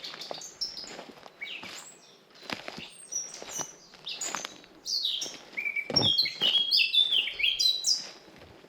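Several songbirds chirping and singing at once, the song busiest over the last few seconds, with footsteps on a forest path every half second or so.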